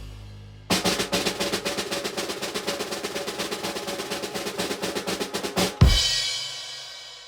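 Snare drum roll of about five seconds, ending in a loud cymbal crash that rings out and fades.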